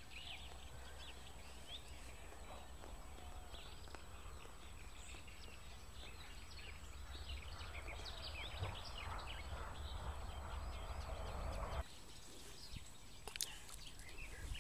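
Small birds chirping and singing over a steady low rumble. The rumble cuts off abruptly near the end, leaving fainter birdsong and a few sharp clicks.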